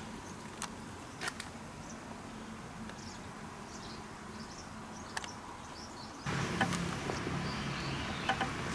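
Faint steady rumble inside a moving train, with a few sharp clicks. About six seconds in it cuts to louder open-air station ambience with a steady low hum.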